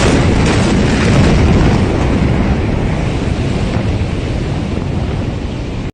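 Blast of a huge explosion: a sudden loud boom right at the start, followed by a sustained rumbling roar with wind-like buffeting on the microphone that slowly eases off.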